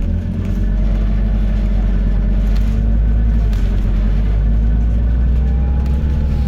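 Scania N280UD double-decker bus's diesel engine running under way, heard from inside the bus as a steady low drone, with a faint whine that rises and falls slightly near the end.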